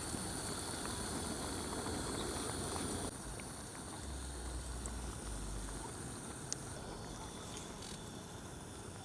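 Steady outdoor background noise, which changes abruptly about three seconds in, with a few faint ticks.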